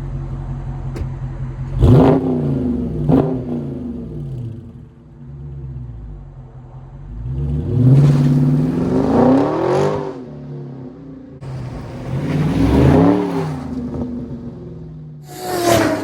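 Dodge Charger 392 Scat Pack's 6.4-litre HEMI V8 idling and being revved through its exhaust: two quick blips early on, then two longer revs that climb and fall back to idle, and a last short blip just before the sound cuts off.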